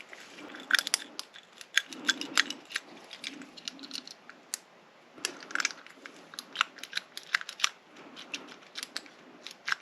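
Lock being picked: a pick and tension wrench working the pins of a grubby lock cylinder, with many small, irregular metallic clicks and scrapes.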